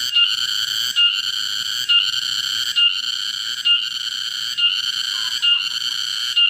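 An insect calling: a loud, steady, high-pitched buzz with a brief break and accent about once a second, repeating evenly.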